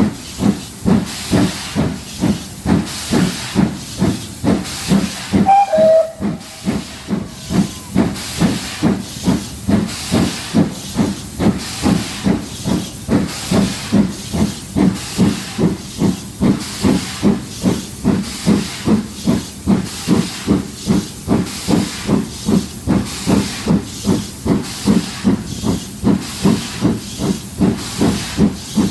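GWR Castle class 4-6-0 steam locomotive Pendennis Castle, a four-cylinder engine, working hard up a steep gradient: a steady, even rhythm of chuffing exhaust beats with steam hiss. A brief falling tone sounds about six seconds in.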